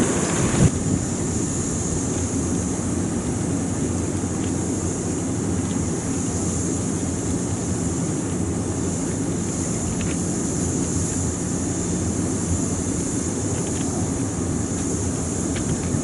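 Steady low hum of a parked electric train's onboard equipment, with a constant high-pitched drone above it and a few faint ticks.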